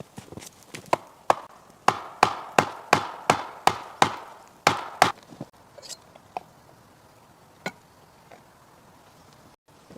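Wood being chopped: a quick run of about a dozen sharp strikes, roughly three a second, loudest for about four seconds, then a few lighter scattered knocks.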